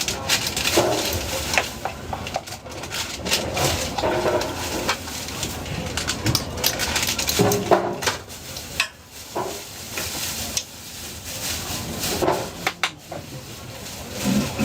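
Street-food stall cooking sounds: metal utensils clattering and scraping against a pan or griddle while food sizzles, with brief background voices.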